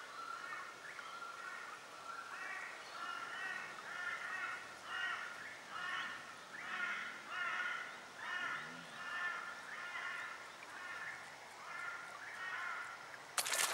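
Birds calling in the trees, short calls repeated about twice a second. A sudden loud noise cuts in near the end.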